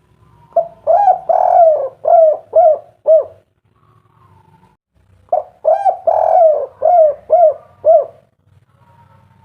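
Spotted dove (tekukur) cooing its 'kuk 3' song twice. Each phrase is a run of about six low coos, with a longer coo second in the run. The second phrase starts about five seconds in.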